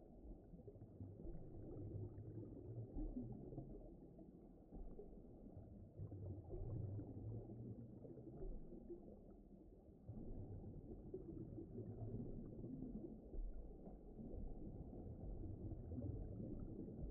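Faint, muffled, low rumbling ambience that swells and ebbs, with nothing in the higher pitches: an underwater-style ocean sound bed.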